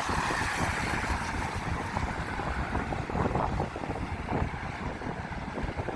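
Strong gusty wind buffeting the microphone, a rough low rumble that rises and falls with the gusts.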